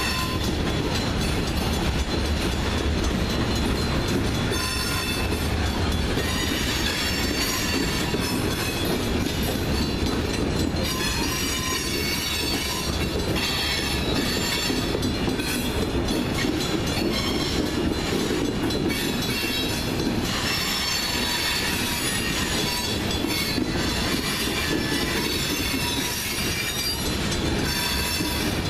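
Freight train of tank cars rolling past a grade crossing: a steady rumble of steel wheels on the rails, with high-pitched wheel squeal that comes and goes.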